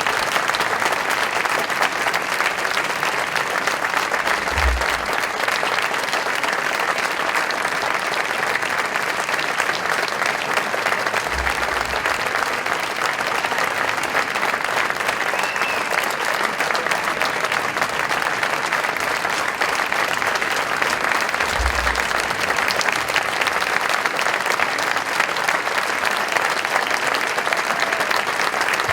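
Concert audience applauding steadily, with three short dull low thuds about 5, 11 and 22 seconds in.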